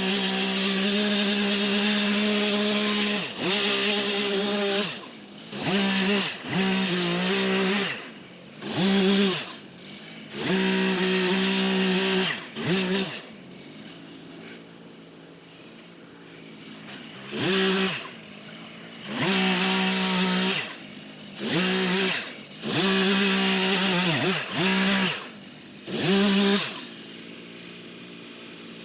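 Two-stroke chainsaw run at full throttle in repeated bursts of one to three seconds, each falling back to idle. This is the stop-and-go pattern of delimbing felled trees. It idles for a few seconds about halfway through and again near the end.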